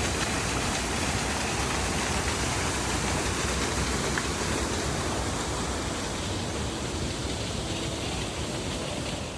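Steady rushing noise, easing off a little near the end.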